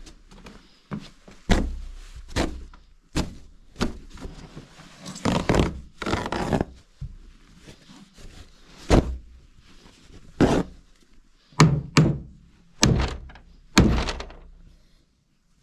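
A series of heavy thunks and knocks at irregular intervals, about a dozen in all, with a longer scraping, clattering stretch around the middle, from hand renovation work such as knocking or breaking things apart.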